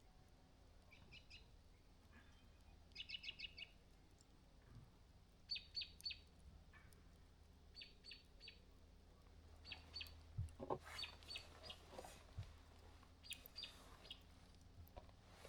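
A bird chirping: short quick runs of three to six high notes, repeated every second or two over a quiet background.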